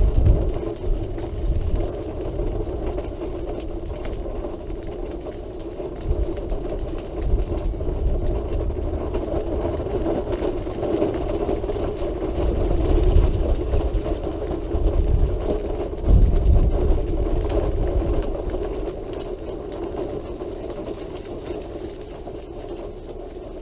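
Quickie Q700 mid-wheel-drive powered wheelchair's electric drive motors running steadily as it travels along a path, with irregular low rumbles underneath. It gets gradually quieter near the end.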